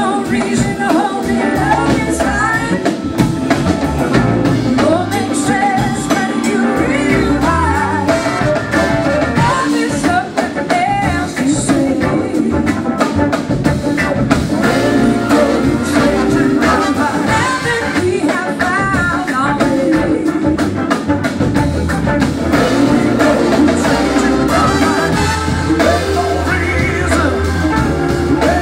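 Live blues-rock band playing, with singing over drums, bass and electric guitar at a steady, loud level.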